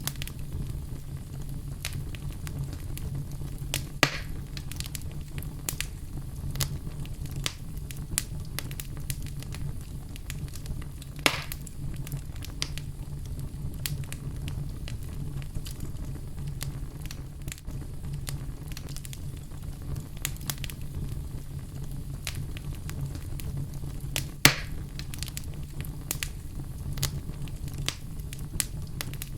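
Wood fire burning in a fireplace: a steady low rumble of flames with frequent small crackles and three louder pops, the loudest near the end.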